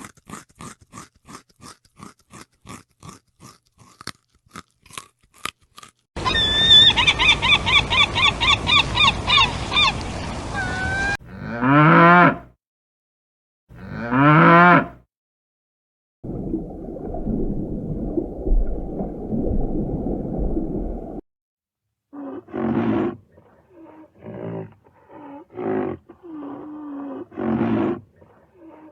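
A string of different animal calls, one after another. It opens with a fast run of clicks, then a pulsing call over a noisy background, two loud calls that rise and fall in pitch, a low rumble, and a series of short calls near the end.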